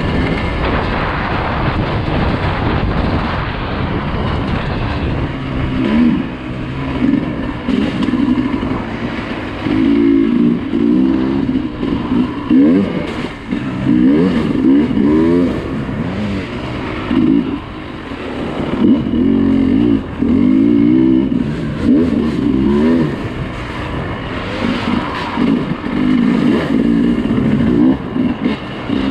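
Dirt bike engine revving up and down in repeated short bursts of throttle as the bike is ridden, its pitch rising and falling every second or two.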